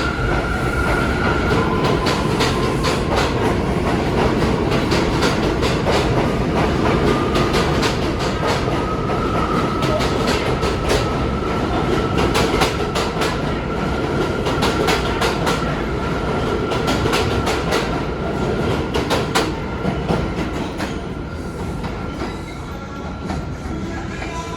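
New York City subway A train running along the track, its wheels clicking rapidly over rail joints, with a steady high tone over the rumble; the sound eases off a little near the end.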